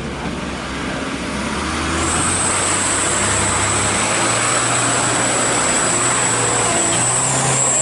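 Truck engines running in a queue of stopped traffic, a steady low rumble under road noise. About two seconds in, a steady high-pitched whine comes in and holds.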